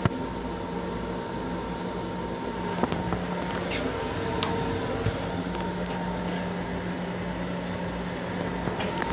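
Running noise of an M7 electric railcar heard from inside its restroom: a steady rumble with a low hum and a higher whine held over it, and a few short clicks and rattles scattered through.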